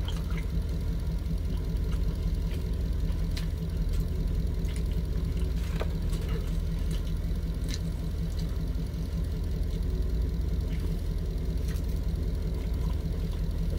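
A vehicle engine idling with a steady low hum, heard from inside the cab, with scattered small clicks of chewing over it.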